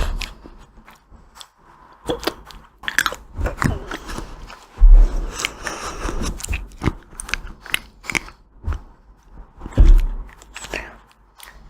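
Close-miked biting and chewing of ice cream with a crunchy coating, with crisp crackling bites throughout. Two heavy low thumps come about 5 and 10 seconds in.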